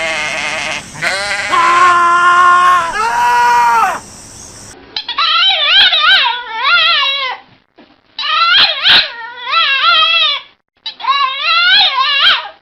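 A goat bleating in long, held cries. After a cut about five seconds in, a dog whines and howls in three wavering, warbling runs of calls.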